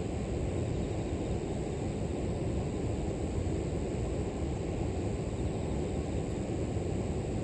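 Steady, low rush of a flowing river, even and unbroken, with a thin steady high chirring of grass insects above it.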